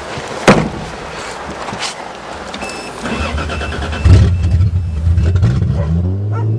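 1982 Toyota Cressida's engine cranking and catching, then settling into a steady idle, with a sharp knock about half a second in and a brief high electronic tone just before the start.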